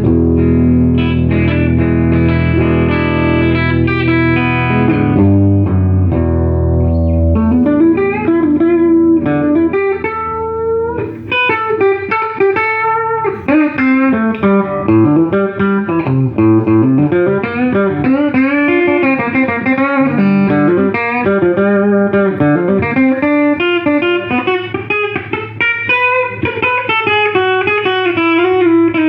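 Gibson SG Standard electric guitar played through a 1968 Fender Super Reverb tube amp. It opens with held chords over low bass notes for several seconds, then moves to single-note lead lines with string bends.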